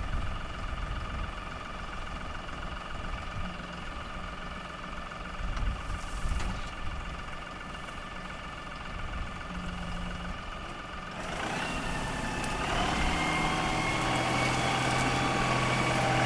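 LS XR3135 compact tractor's diesel engine running steadily, then growing louder with a changed note about eleven seconds in.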